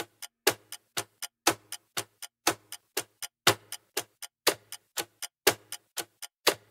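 Clock-tick countdown sound effect: steady, even ticks, about two louder ticks a second with softer ones in between.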